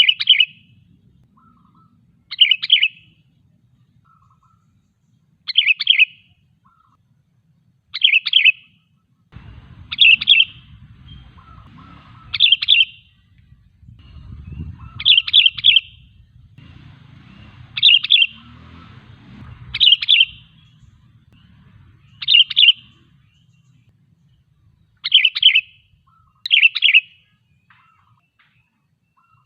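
Sooty-headed bulbul (kutilang) calling a short, bright phrase over and over, about a dozen times, one every two to three seconds.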